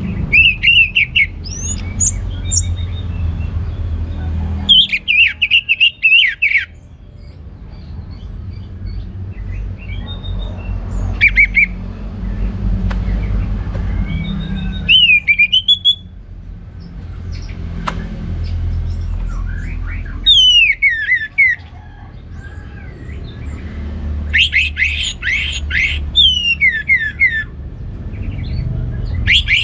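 Orange-headed thrush singing its full, open song (ngeplong) in short bursts of rapid trills and falling whistled notes, with pauses of a few seconds between phrases, over a steady low rumble.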